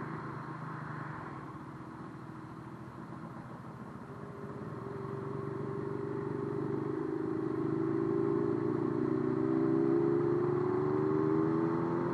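Motorcycle engine running and accelerating, its note climbing steadily in pitch and growing louder through the second half.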